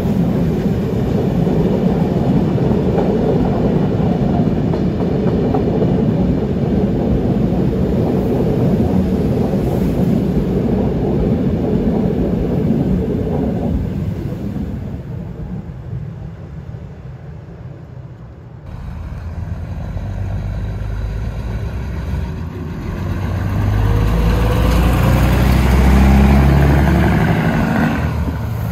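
Steam locomotive and its train passing close by, a loud dense rush of steam and rolling wheels that fades away over several seconds. Then a diesel engine of an Uerdinger Schienenbus railbus running with a low rumble, swelling as the railbus moves off.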